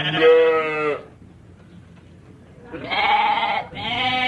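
Sheep bleating: a quavering call that fades about a second in, then two more calls back to back near the end.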